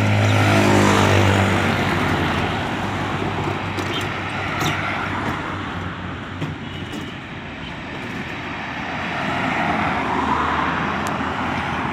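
Motor vehicles passing on a road. A loud engine hum fills the first couple of seconds and fades, steady tyre and traffic noise follows, and it swells again as another vehicle passes near the end.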